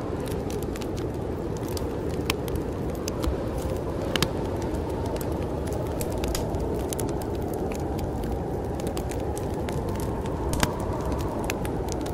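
Wood fire crackling in a fireplace, with scattered sharp pops, over a steady low rush of snowstorm wind that swells a little near the end.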